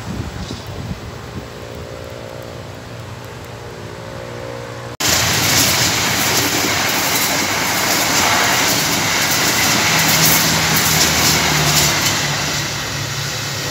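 Passenger train of silver coaches passing along the track. First a fainter rumble with a low hum as it approaches. About five seconds in the sound jumps abruptly to a loud, steady rumble and rush of the coaches' wheels rolling by on the rails.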